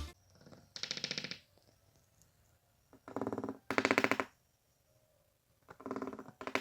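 A bird calling in five short bursts of rapid, rattling pulses, with pauses between them.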